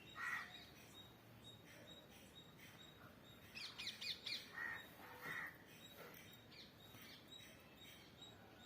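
Small birds chirping in the background: a single chirp right at the start, then a quick run of high chirps about halfway through, and two more just after.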